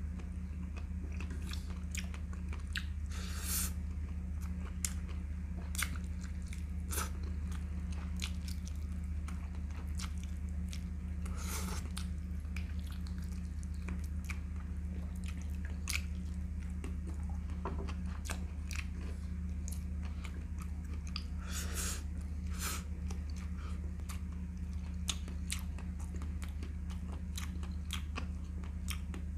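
A person chewing and biting chicken leg hamonado eaten by hand: wet clicking mouth sounds, with a few louder bites spread through, over a steady low hum.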